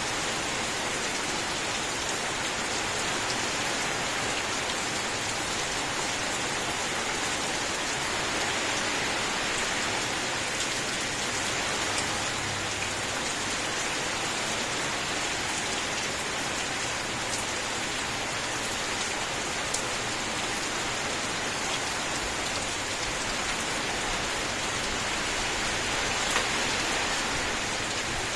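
Steady rain falling: an even hiss, with now and then the sharper tick of a single drop.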